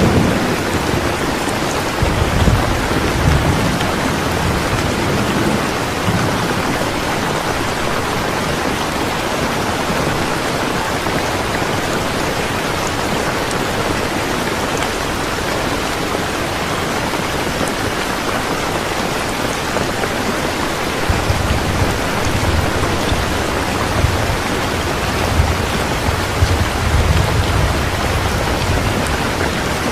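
Steady rain falling. A low rumble swells up twice, a couple of seconds in and again in the last third.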